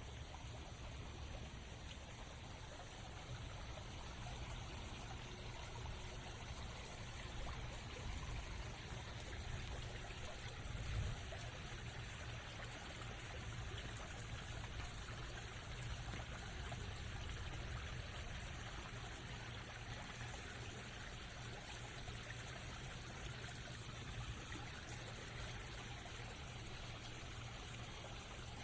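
Steady rain falling on the forest, an even hiss of water with a low rumble beneath it. A brief thump comes about eleven seconds in.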